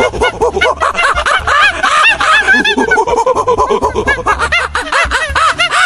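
Baboons calling: many rapid, overlapping short chattering calls, several a second.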